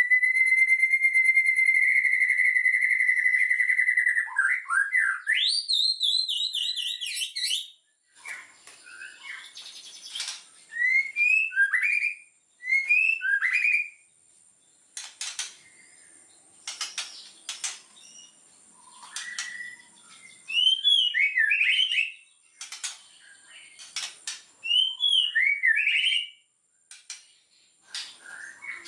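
White-rumped shama (murai batu) singing. It holds one long whistle for about four seconds, then sweeps up in rising glides, then breaks into varied phrases of short rising whistles mixed with sharp clicking notes.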